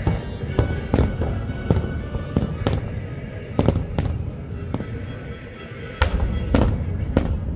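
Fireworks finale: aerial shells bursting in a rapid string of a dozen or so sharp booms and cracks, about one or two a second, over a continuous low rumble. The show's music plays underneath.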